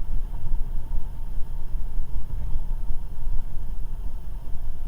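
Steady low rumble of engine and road noise heard inside the cabin of a 2008 Toyota 4Runner V6 driving at highway speed.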